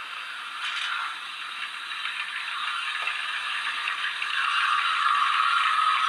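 Steam locomotive injector sound effect from the factory-fitted sound decoder of an OO gauge Rapido Hunslet 16in 0-6-0ST model, played through the model's small speaker: a steady hiss, with a singing tone coming in about two-thirds of the way through.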